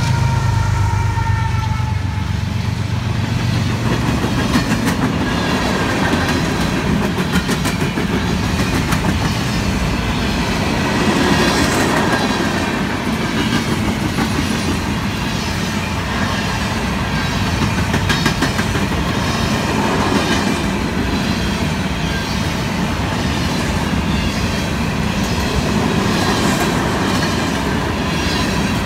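A diesel freight locomotive passes in the first few seconds, its engine hum and a few whining tones dropping slightly in pitch as it goes by. Then a long string of covered hopper cars rolls past with a steady rhythmic clickety-clack of wheels over the rail joints.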